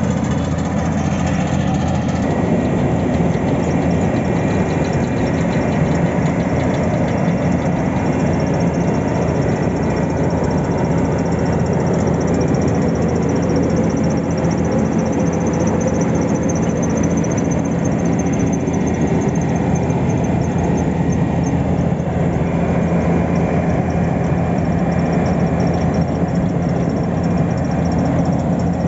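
Heavy engine of road-works machinery at an asphalt paving job, running steadily at a constant speed.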